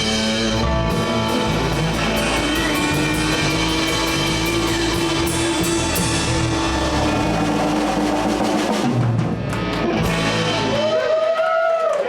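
Live blues band (electric guitars, bass guitar and drum kit with cymbals) playing an instrumental section, with a long held guitar note through the middle. The band stops about eleven seconds in and a man starts talking.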